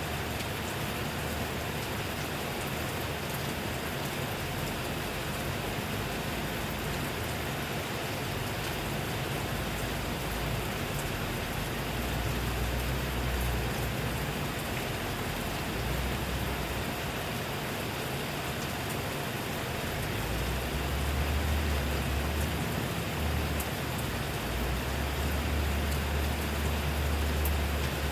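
Rain falling steadily, a dense, even hiss with scattered drop ticks. A low rumble comes and goes underneath, strongest in the second half.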